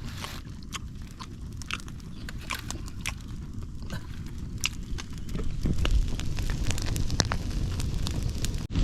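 Wood fire crackling, with irregular sharp pops over a low rumble of flames that grows louder about five seconds in.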